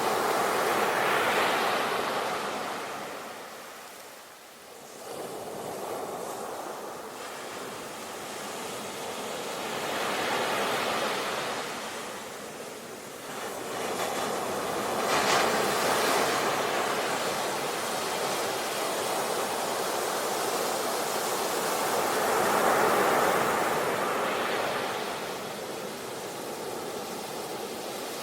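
Sea waves washing onto the shore, the surf swelling and ebbing in slow surges every several seconds, with a brief lull about four seconds in.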